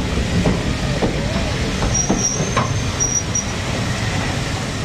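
Train rolling on the rails, a steady rumble of wheels with knocks over rail joints. A few short, high wheel squeals come in the middle.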